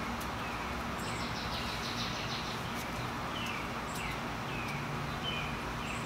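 Steady outdoor background noise with a bird repeating short chirps that fall in pitch, about one a second.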